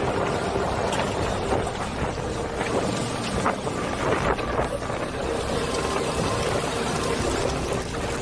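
Loud, gusty wind and rushing water, with wind buffeting the microphone.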